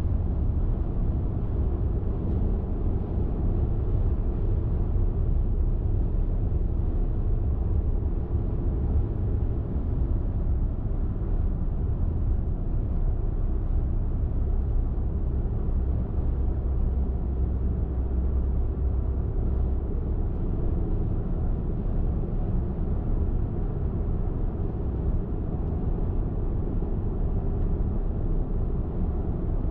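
Car driving on the highway: a steady low rumble of tyre and engine noise.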